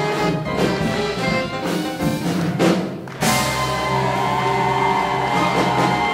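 Live big band playing hot swing jazz with brass and drums. About three seconds in the full band hits a loud accent and holds a long sustained chord.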